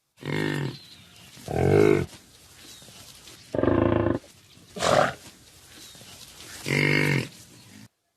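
Bison giving five low calls, each under a second long and spaced about a second or more apart, over a faint background hiss; the sound cuts off sharply near the end.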